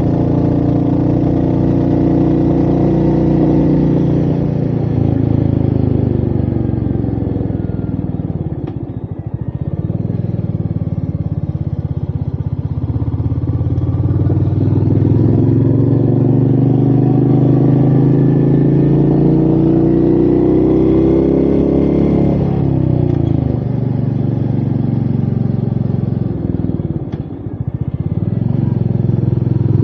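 Royal Enfield Meteor 350's single-cylinder engine running under way, its pitch rising and falling with speed, with wind noise. The engine note dips briefly about a third of the way in and again near the end.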